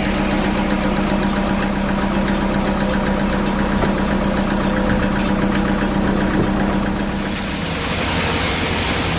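Sawmill machinery running with a steady engine-like hum. About seven seconds in, the hum changes and a higher hiss joins in as the saw begins cutting the log.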